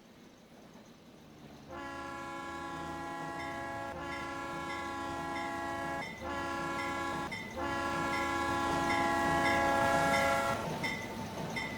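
Pennsylvania Railroad steam locomotive whistle sounding three blasts: a long one, a short one, then a long one, each a chord of several steady tones. A locomotive bell rings steadily at about two strikes a second.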